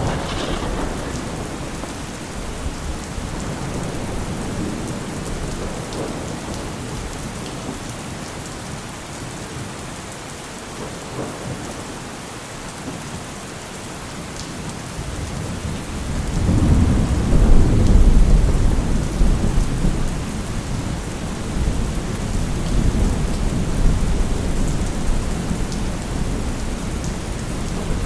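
Steady rain falling, with thunder rumbling; a loud, deep roll of thunder builds about two-thirds of the way through and rolls on to the end.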